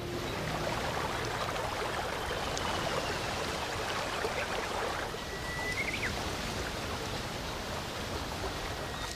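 Steady rush of running water, with one faint thin bird call about five seconds in.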